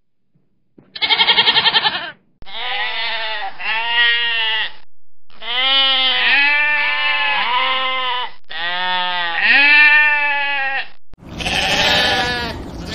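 Goats and sheep bleating: a short quavering bleat about a second in, then a run of long, wavering bleats in separate takes that start and stop abruptly. Near the end the bleats sit over a noisier field recording.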